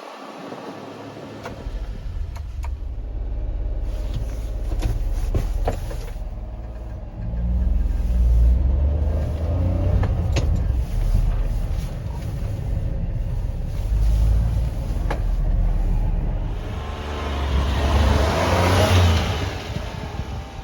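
Engine of a 1995 Honda Acty mini truck, a small three-cylinder, running with a low rumble that rises and falls several times and swells once more near the end.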